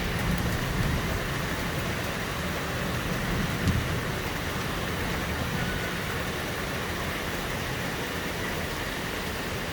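Steady rain falling, an even hiss. A low rumble underneath fades after about four seconds.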